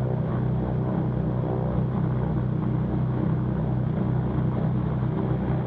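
Cessna 310Q's twin piston engines idling on the ground, a steady drone of propeller and engine.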